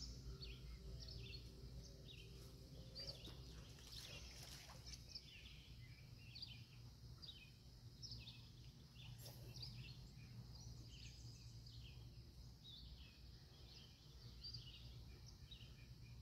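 Faint songbirds chirping: many short, quick calls one after another over a steady low outdoor rumble, with a brief burst of noise about four seconds in.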